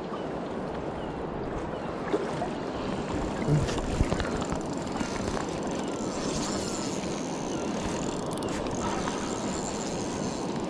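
Steady rush of river water, with a few small knocks about two and four seconds in.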